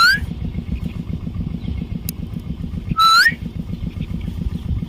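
Common myna giving two short whistled calls, each holding a note and then sweeping upward: one right at the start and one about three seconds in. A steady low rumble runs underneath.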